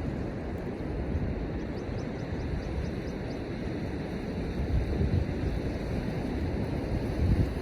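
Wind buffeting the microphone over the steady wash of surf, with gusts rising about five seconds in and again near the end. A faint quick run of high bird peeps about two seconds in.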